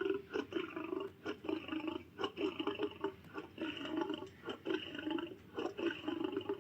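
Barbary lion making a run of short, irregular rough sounds broken by many clicks, several a second.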